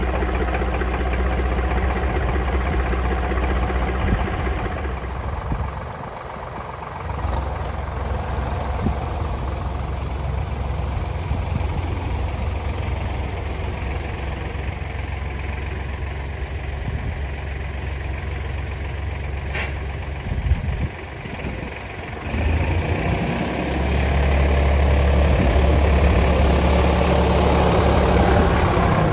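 Kioti DK65 tractor's diesel engine running steadily. It dips briefly twice and runs louder for the last few seconds.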